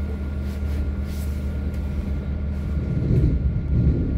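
Inside a moving electric passenger train: the carriage rumbles steadily over the track, with a thin steady high hum above it. The rumble grows louder about three seconds in.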